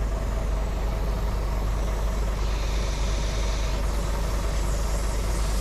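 Scania truck's diesel engine idling steadily. A faint hiss of air, the punctured tyre losing air, comes in over the second half.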